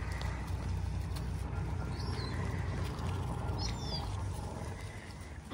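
Steady low rumble of wind on the microphone, with two faint, short, high bird chirps, about two seconds in and again near four seconds.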